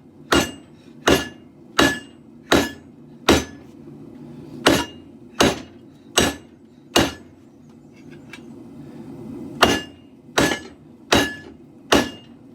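Hammer blows on hot katana steel over an anvil, drawing the blade out: about a dozen evenly paced strikes, each with a short metallic ring, with one pause in the middle. A steady low rumble runs underneath.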